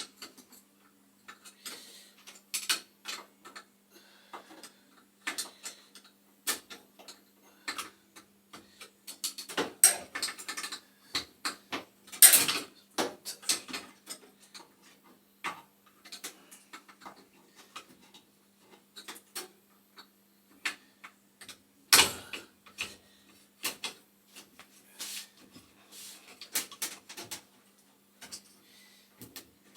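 Irregular clicks, taps and knocks of a wrench and metal fittings as the pilot tube is worked loose from a gas boiler's standing-pilot burner assembly, with a few louder clanks around the middle. A faint steady hum runs underneath.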